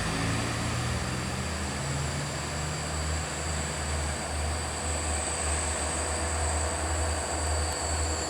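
Large diesel bus engine running with a steady, pulsing low drone, with a thin, steady high whine above it.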